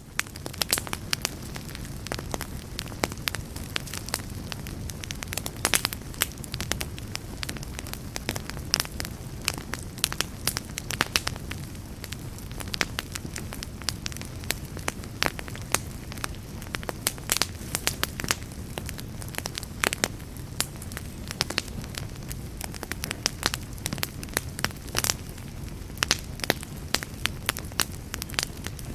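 Wood fire in a fireplace crackling steadily, with frequent sharp pops and snaps over a low, steady rumble.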